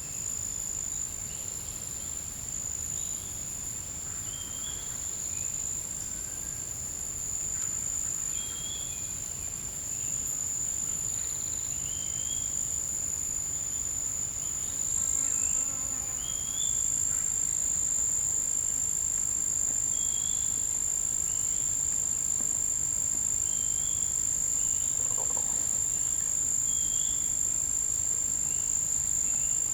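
Forest insects holding one steady, high-pitched drone. Short rising bird calls repeat over it every couple of seconds.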